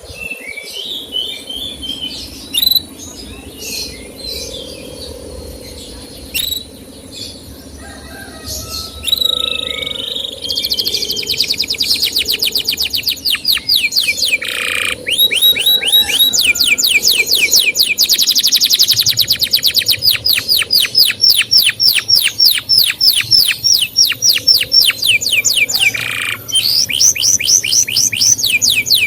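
Male canary calling: scattered short chirps at first, then from about ten seconds in a long, loud run of quick, falling 'cuit' notes, about five a second, broken by a couple of brief pauses.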